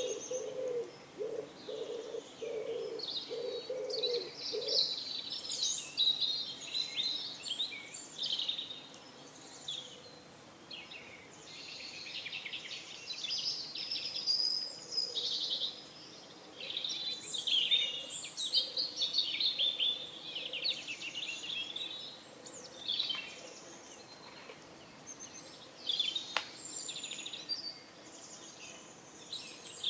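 Several songbirds chirping and twittering, with rapid high calls coming and going. A pigeon coos low in a repeated run during the first few seconds.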